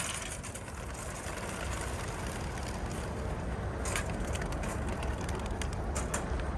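A flock of racing pigeons bursting out of the opened trailer crates, their wings making a steady rushing flutter over a low rumble, with scattered clacks from the crates.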